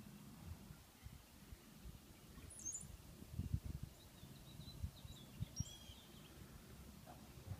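Birds chirping briefly a few times: high short calls about two and a half seconds in, then again through the middle. Underneath is a faint low rumble with a few soft low thumps.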